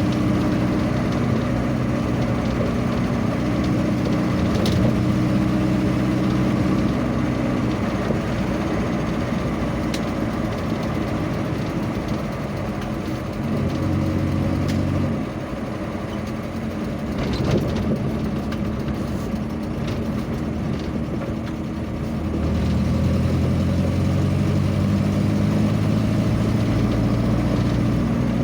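A vehicle engine running on the move, with a steady hum under road noise. The hum fades and the sound drops a little about halfway through, then the hum returns about seven seconds later as the engine speed changes.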